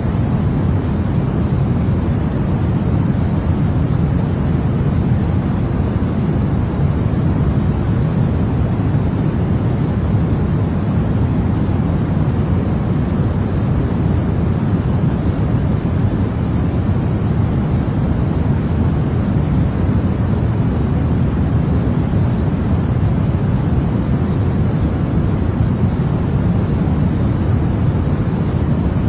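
Continuous white noise for infant sleep: an even, deep rushing sound with most of its weight in the low end and little hiss, unchanging throughout.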